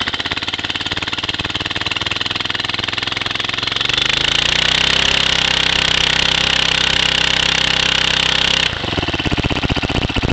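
Cold Mitsubishi GT600 single-cylinder four-stroke engine on a Fire Fox 620 go-kart, idling. About four seconds in the revs rise, hold higher and louder for roughly five seconds, then drop suddenly back to idle when the throttle is let off.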